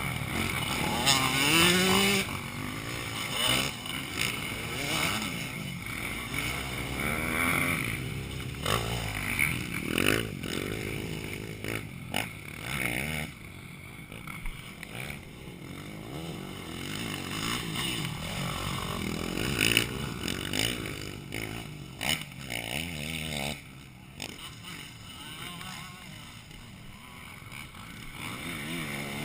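Motocross motorcycle engines revving up and down as the bikes ride the dirt track, with pitch rising sharply near the start and fading in and out as they pass. Fainter in the second half.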